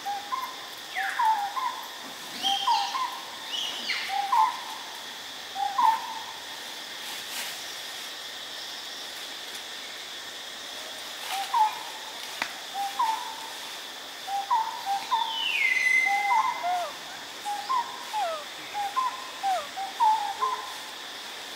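A bird repeating short two-note hooting calls in runs, with a pause of a few seconds in the middle. A steady high insect drone runs underneath, and a single falling whistle comes a little past the middle.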